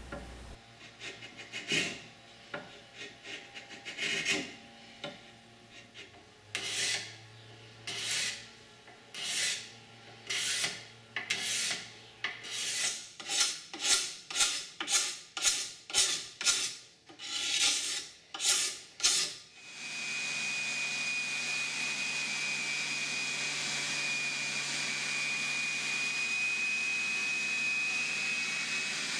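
Hand-tool strokes shaving and scraping a wooden chair back with spokeshaves and card scrapers, a stroke every second or two at first, then quicker and more regular, over one a second. About twenty seconds in the strokes stop and a motor starts running steadily with a high whine.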